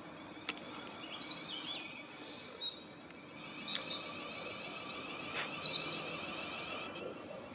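Small songbirds chirping and calling, with a fast high trill about three quarters through as the loudest sound, over a faint steady background noise.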